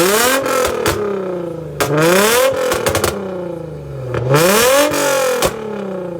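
LS-swapped Mustang's V8 revved hard three times, each rev climbing quickly and dropping back toward idle, loud enough to be felt in the chest.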